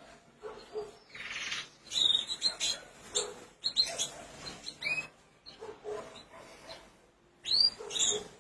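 Pet canaries giving short, separate chirps and calls, several sliding in pitch, with brief gaps between them.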